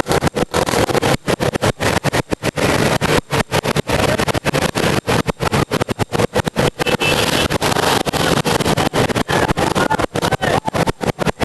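Motorcycle engines running at a race, heard as a loud, harsh roar of noise with a faint steady drone. The sound cuts out for split seconds many times over, as from an overloaded, glitching recording.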